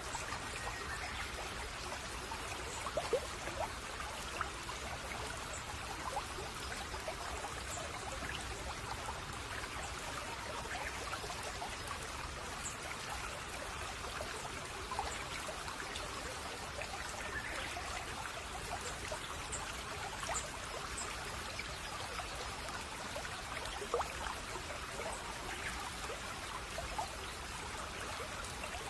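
Babbling brook: shallow water flowing and trickling steadily, with many small splashes and drips.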